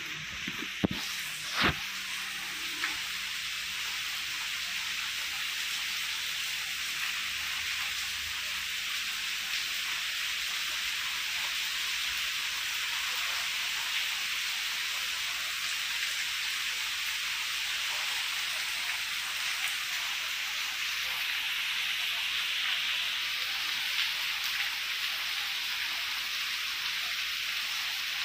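Heavy rain falling steadily on tree leaves, a dense even hiss. Two sharp knocks come about a second and two seconds in.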